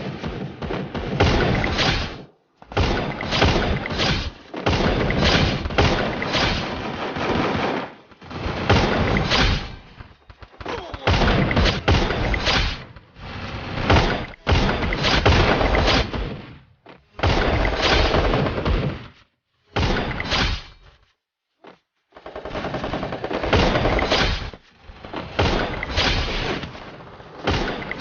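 Woodpecker hammering on wood in bursts of rapid taps, each burst lasting one to two seconds, with short pauses between them.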